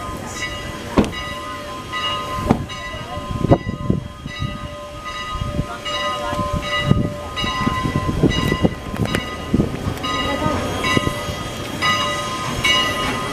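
A train rolling past, with irregular clanks and knocks, and a bell ringing about twice a second over it.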